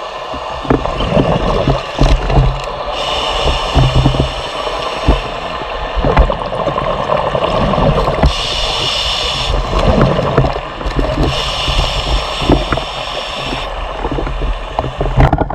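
Water gurgling and sloshing with a steady rush of noise, broken by frequent low thumps and knocks and a few stretches of brighter hiss.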